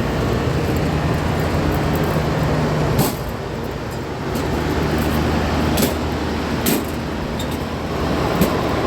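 Steady machinery hum with a rushing noise, like running air-conditioning equipment, with a few light clicks; the hum changes pitch about three seconds in.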